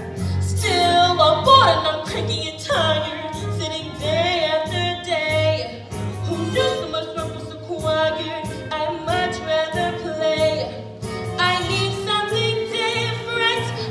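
A young female voice singing a musical-theatre song over a recorded backing track with a steady pulsing bass.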